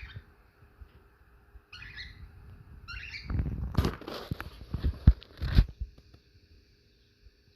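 Caged birds: three short, high calls, then from about three seconds in a couple of seconds of wing flapping and clattering with sharp knocks.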